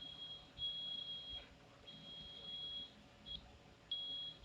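Smoke alarm going off, a high-pitched beep sounding in tones of up to about a second, repeating roughly once a second.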